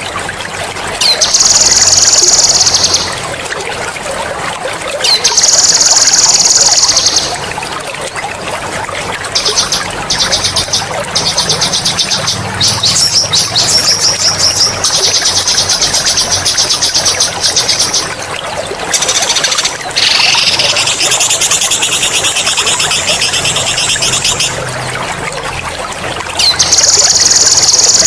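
Songbird singing loud, sharp rolling trills in repeated bursts of a few seconds each, high-pitched and fast-pulsing, over the steady sound of trickling water.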